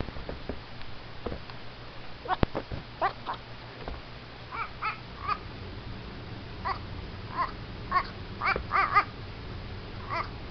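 Baby goat making short, harsh, duck-like quacking calls, over a dozen of them, often in quick twos and threes. There is one sharp knock about two and a half seconds in.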